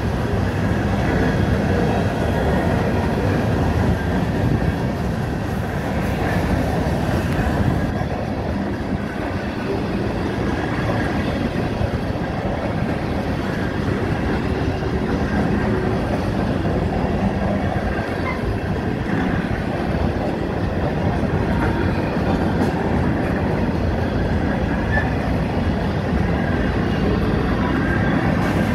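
Manifest freight train's covered hopper cars rolling past: a steady rumble of steel wheels on the rails.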